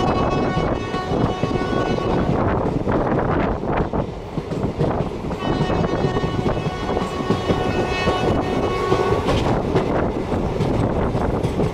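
An Indian Railways train running, heard from a carriage window, with a steady rumble and rattle. Over it the locomotive's multi-tone horn sounds twice: one long blast ending about two seconds in, and another lasting about four seconds from around the middle.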